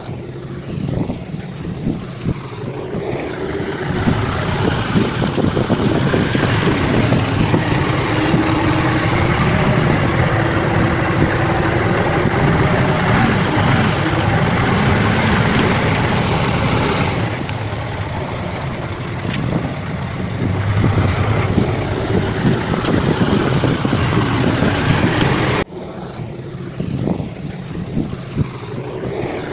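Bulldozer's diesel engine running under working load. It gets louder about four seconds in, eases back around the middle, and changes abruptly near the end.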